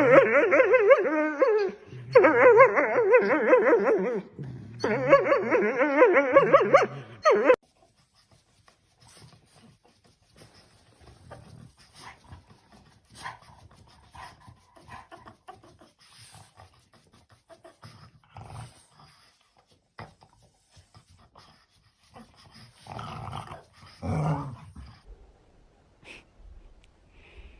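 A dog whining and howling in three long, wavering calls, then faint clicking and rustling, with one short louder sound near the end.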